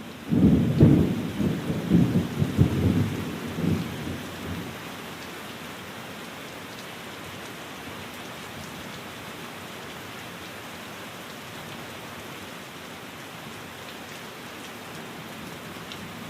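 Steady rain hiss with a rolling rumble of thunder through the first four seconds or so, which dies away and leaves the even patter of rain.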